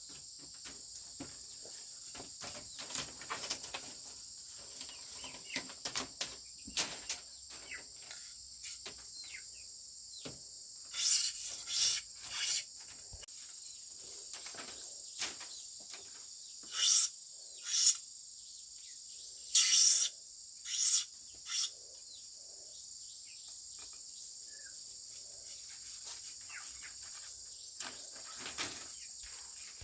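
Steady high-pitched chorus of crickets, with light clicks and taps and several loud, short scraping or rasping strokes that come in small groups.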